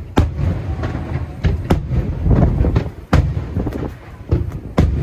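Aerial firework shells bursting in quick succession: about half a dozen sharp bangs over a continuous low rumble of further bursts.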